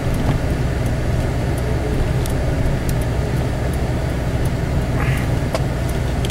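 Steady low rumble of a four-wheel-drive vehicle's drivetrain and tyres heard inside the cab while driving slowly through snow. A hazard-light flasher ticks along with it, about one click every two-thirds of a second.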